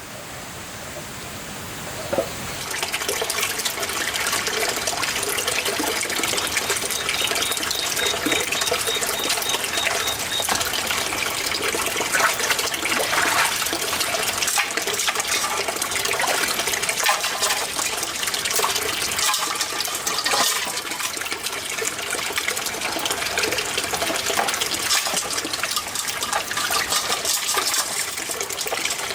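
Running water splashing steadily, swelling in over the first couple of seconds.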